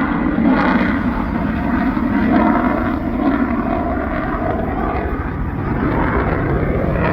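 Jet noise from the twin General Electric F414 turbofans of a Boeing F/A-18F Super Hornet in flight: a loud, steady rush of sound that swells and eases slowly.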